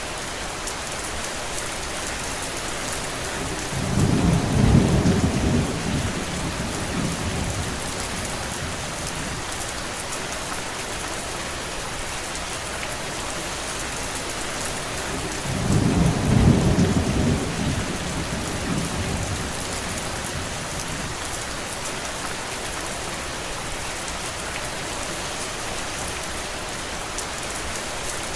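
Steady rainfall with an even hiss, and two low rumbles of about two seconds each, one about four seconds in and one about sixteen seconds in.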